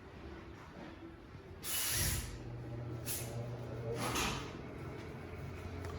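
Short hisses of compressed air, the loudest about two seconds in and two shorter ones about a second apart after it. A low, steady machine hum starts with the first hiss and runs on underneath.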